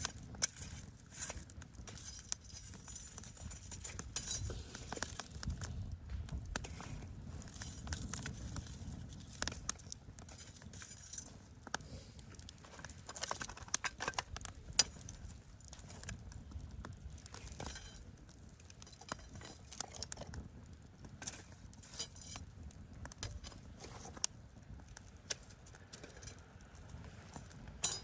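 Campfire crackling, with many sharp, irregular snaps and pops over a low rumble.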